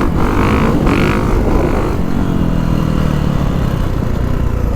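2022 Kawasaki KX450SR's single-cylinder four-stroke motocross engine putting along at low throttle, running smoothly with no chuffing.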